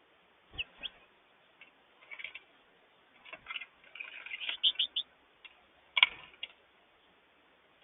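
Wild birds at a feeder: irregular sharp taps and clicks, such as pecking, with a quick run of short chirps about halfway through and a louder click about six seconds in.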